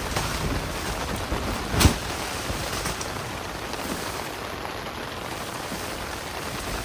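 Steady heavy rain falling on a tent, with a sharp knock just under two seconds in.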